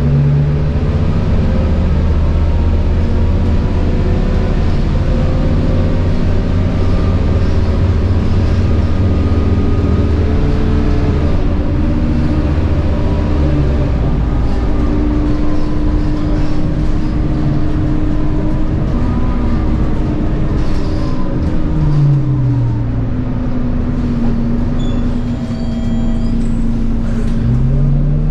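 Scania K230UB bus under way: its diesel engine running with a steady whine from the ZF Ecomat automatic gearbox. The pitch drops sharply about 22 seconds in and climbs again near the end, as the engine and gearbox change speed.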